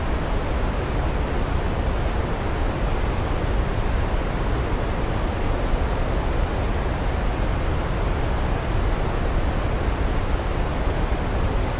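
Waterfall rushing in a steady, even wash of noise, heaviest in the low end.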